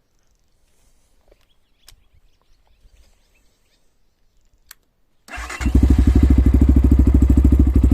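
Kovi Advance 300 enduro motorcycle engine started from cold, catching about five seconds in and settling into a steady, evenly pulsing idle; a couple of small clicks come before it.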